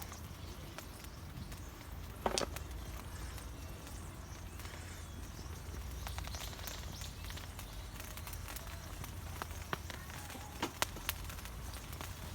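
Campfire crackling, with scattered sharp pops and a louder knock about two seconds in, over a low steady outdoor rumble.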